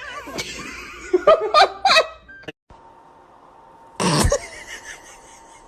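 A person laughing in loud bursts, cut off suddenly. A short loud cry falling in pitch comes about four seconds in.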